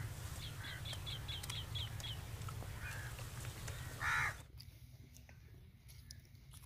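Birds calling: a quick run of about eight short high chirps, then one loud harsh call about four seconds in, over a low steady background rumble. The background drops away suddenly just after the loud call.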